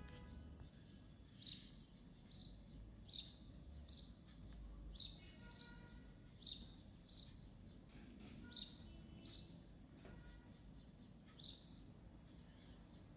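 A bird chirping: about a dozen short high chirps, several in quick pairs, at irregular intervals, over a faint low hum.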